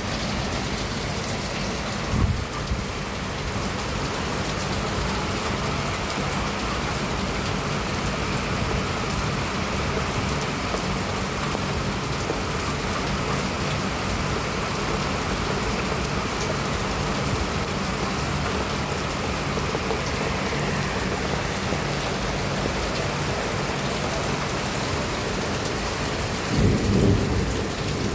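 Steady rain falling, an even hiss of drops hitting surfaces. Twice it is broken by a brief, louder low thump: once about two seconds in and once near the end.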